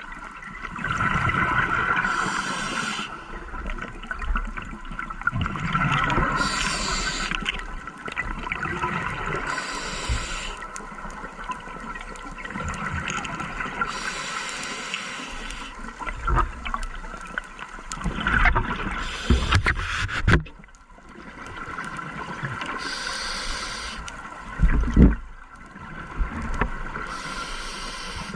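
Scuba diver breathing underwater through a regulator: exhaled bubbles hiss and burble in bursts about every four seconds over a steady underwater wash. A dull knock comes near the end.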